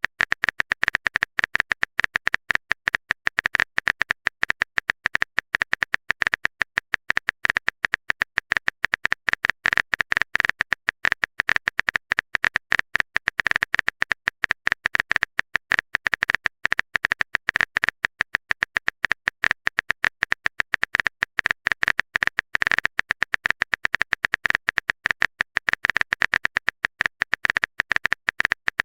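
Typing sound effect: a steady stream of rapid, identical clicks, many a second without a pause.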